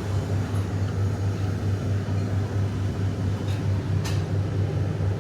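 Steady low hum of an airport lounge's background noise, with a few faint clicks.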